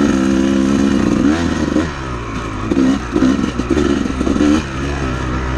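Honda CR250 two-stroke dirt bike engine on the trail: it holds a steady note for about a second, then the throttle is blipped up and down several times, and it settles to a lower, steadier note near the end.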